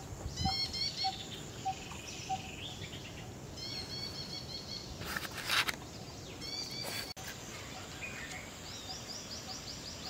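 Wild birds calling in forest: several runs of quick, high, rising chirps, with a steady series of low short 'tuk' notes, about two a second, through the first couple of seconds. A brief rustle about halfway through.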